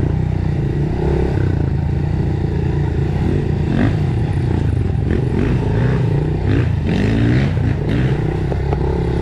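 Dirt bike engine running while riding, its pitch rising and falling with the throttle. Several clattering knocks come in the middle of the stretch.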